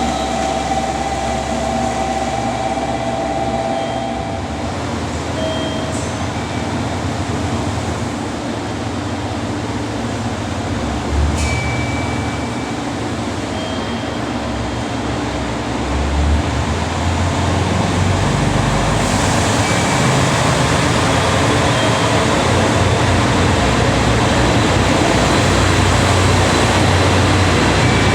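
Train moving through a station, a steady rumble of wheels and running gear that grows louder about halfway through, with a single click near the middle.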